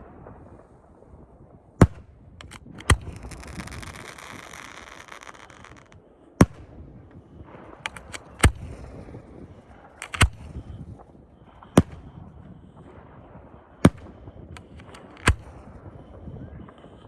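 Fireworks going off: about eight sharp booms a second or two apart, with smaller pops and crackles between them and a few seconds of hissing after the second boom.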